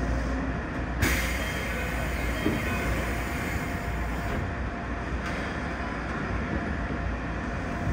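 Keikyu 1500 series electric train standing at a station, heard from inside the car: a steady low hum of its equipment. About a second in, a sudden hiss of air starts and eases off some four seconds later.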